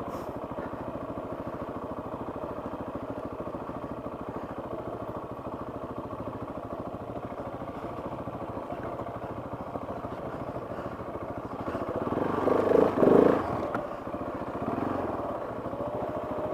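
KTM 690's single-cylinder engine running steadily at low, even speed, with a louder stretch about twelve seconds in.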